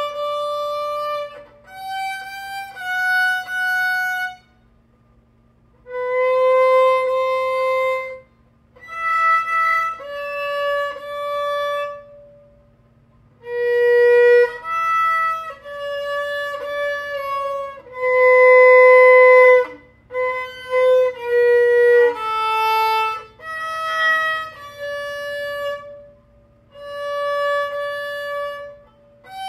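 A 3/4-size violin played in slow practice: long bowed notes, one after another, in short phrases with brief pauses between them.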